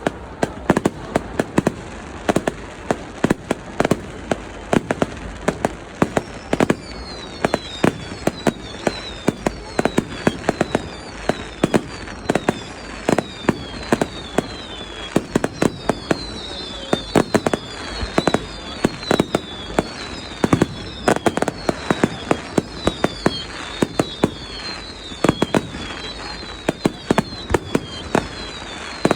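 Fireworks display: a rapid, continuous run of sharp bangs. From about six seconds in, many overlapping high whistles fall in pitch among the bangs.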